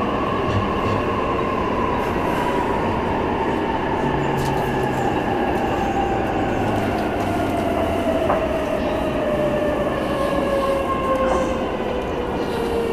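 E233-3000 series electric train running on the rails, heard from on board: a steady rumble of wheels and track, with the traction motors' whine falling steadily in pitch as the train slows.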